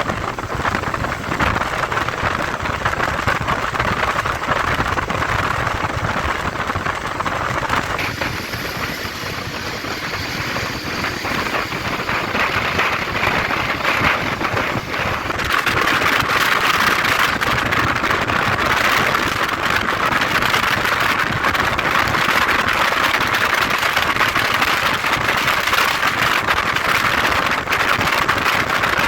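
Steady rush of wind and road noise from a moving motorcycle. The noise drops about eight seconds in and comes back louder about fifteen seconds in.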